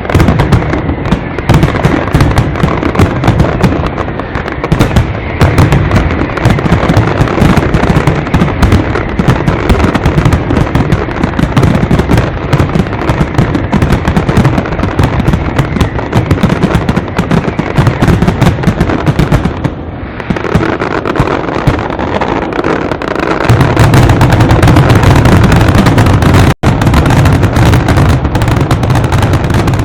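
A fireworks display in a dense, unbroken barrage of bangs and crackles, very loud. About three-quarters of the way through, heavier low booms join in and the barrage grows louder. The sound cuts out for an instant shortly after.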